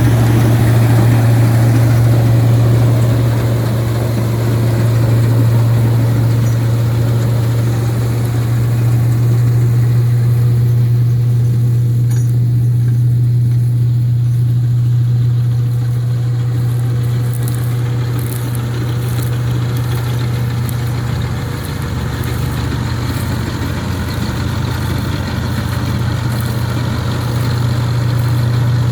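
1988 Ford 3610 tractor's three-cylinder diesel engine running steadily at a constant speed, a deep even hum with no change in pitch.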